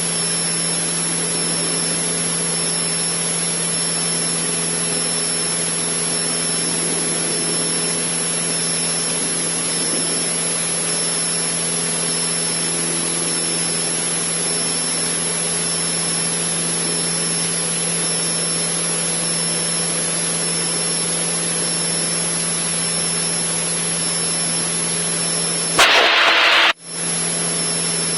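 Cessna 152's four-cylinder Lycoming engine and propeller droning steadily at climb power in the cockpit, a low hum under a wash of hiss with a thin high whine. About 26 seconds in, a brief burst of hiss comes up and the sound drops out for about a second before the drone returns.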